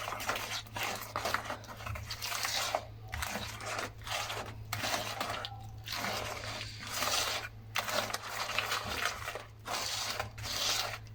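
Soft butter, sugar, egg and grated lemon zest being mixed in a bowl: repeated scraping, squelching strokes with short pauses between them.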